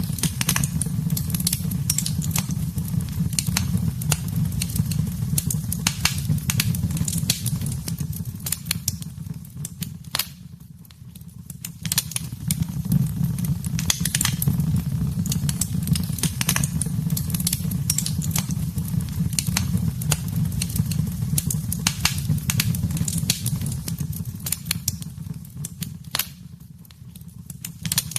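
Wood fire crackling in a fireplace: frequent sharp pops and snaps over a steady low rumble of flames. The sound briefly fades twice, about ten seconds in and again near the end.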